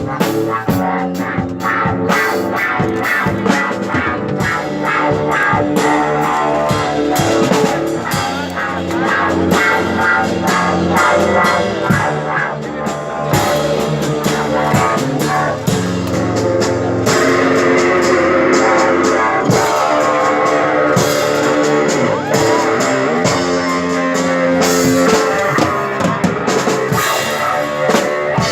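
Live instrumental rock played by electric guitar and drum kit: sustained guitar notes over steady drumming, with the guitar tone growing brighter about two-thirds of the way through.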